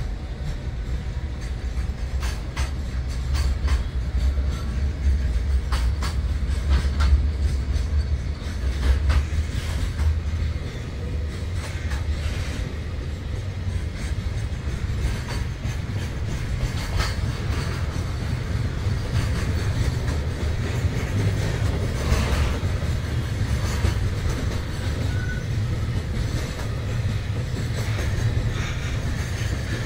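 JR Freight container train rolling past, its container flatcars making a steady low rumble, with the clack of wheels over rail joints.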